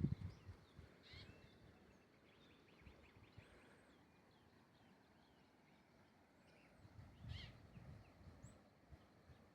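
Faint bird chirps and calls against a quiet outdoor background, with low rumbling bumps at the start and again about seven seconds in.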